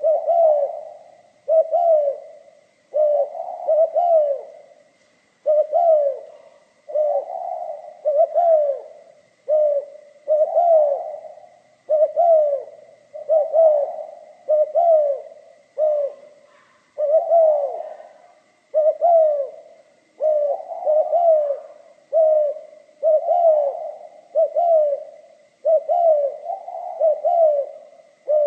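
Spotted dove cooing over and over, one phrase about every second, in the voice that dove keepers call 'pha kim'. A faint steady high tone runs underneath.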